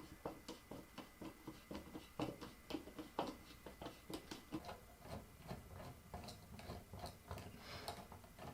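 Faint, irregular clicking of a hand screwdriver working the screws of a ceiling fan's mounting bracket, several small clicks a second.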